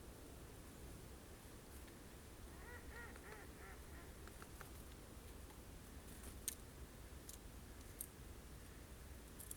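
A bird calling faintly: a quick run of about five short nasal notes a few seconds in, followed by a few sharp, isolated clicks.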